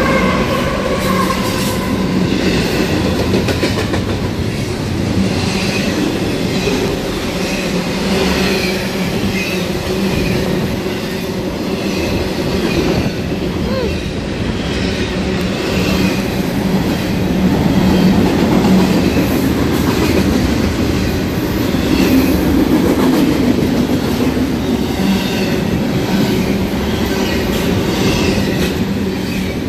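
Intermodal freight train rolling steadily past, a loud continuous rail noise with its wheels running over the track.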